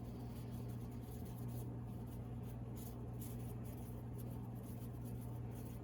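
Soft, irregular scratching and rustling as seasoning goes into a bowl of flour and the flour is worked, over a steady low electrical hum.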